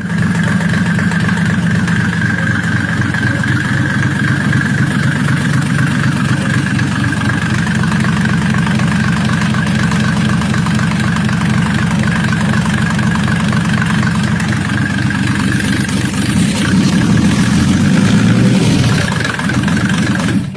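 Benz diesel engine running steadily, with a steady high whine above it. The revs rise briefly near the end, then the sound cuts off suddenly.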